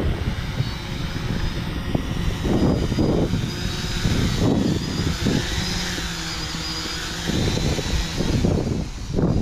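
UpAirOne 2K quadcopter drone's motors and propellers whirring steadily as it comes down to land, with gusts of wind on the microphone.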